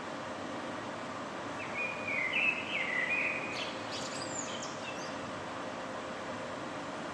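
A songbird sings one phrase starting about a second and a half in: a run of short stepped notes, then quick high sweeping notes around four seconds. Underneath is a steady background hum of city noise.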